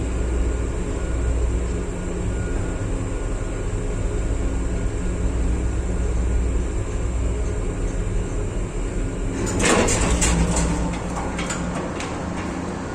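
Ship engine-room machinery running with a loud, steady low hum and drone. About two-thirds of the way in comes a short run of sharp clattering knocks, after which the low hum is a little weaker.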